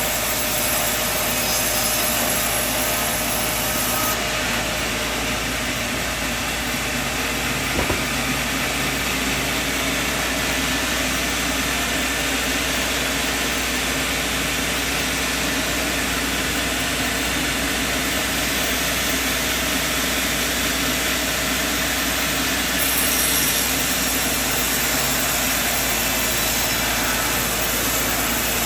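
Sawmill machinery running steadily, with a single sharp knock about eight seconds in.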